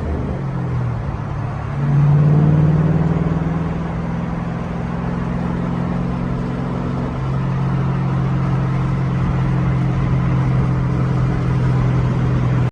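Car engine and exhaust running at a steady speed. It gets louder about two seconds in and settles to a slightly lower, steady note about halfway through.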